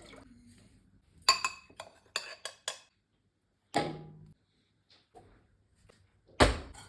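Kitchenware handled: a quick run of sharp clinks about a second in, a louder knock with a short ring near the middle, and a heavy thump near the end, like pots, dishes and utensils being moved and set down.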